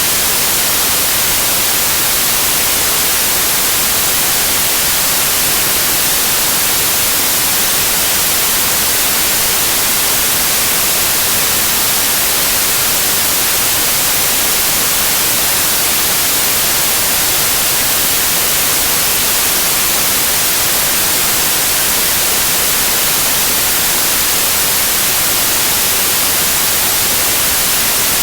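Steady TV-static white noise: an even, unbroken hiss, strongest in the treble.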